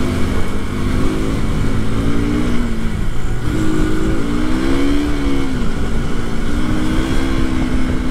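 KTM RC sportbike's single-cylinder engine running under way, its pitch rising and falling several times with the throttle, then holding steady near the end. Wind rushes over the helmet-mounted microphone throughout.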